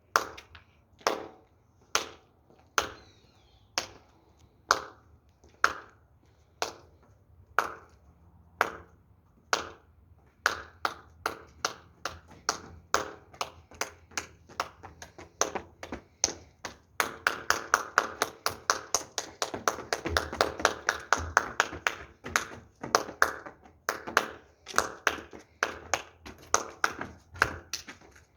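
A long series of sharp percussive strikes with a slight ringing tone. They come about one a second at first, speed up after about ten seconds, and are quickest and densest in a stretch about two-thirds of the way in.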